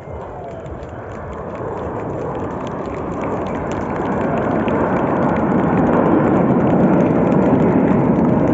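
Jet aircraft passing, a rushing roar that builds steadily louder through the whole stretch.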